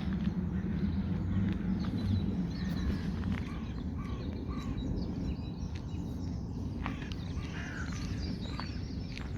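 Birds calling and chirping, including a run of three short calls about halfway through, over a steady low background rumble, with a few sharp clicks.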